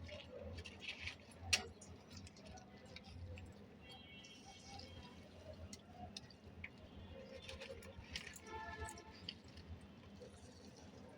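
Faint, scattered light clicks and taps, with one sharper click about a second and a half in, and a short pitched sound near the end.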